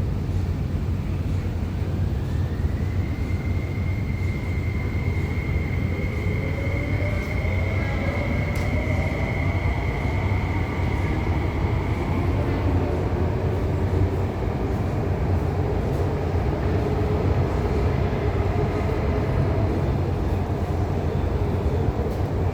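MTR SP1900 (IKK) electric multiple unit pulling away and accelerating. Its traction motors and inverters whine upward in pitch over a steady running rumble.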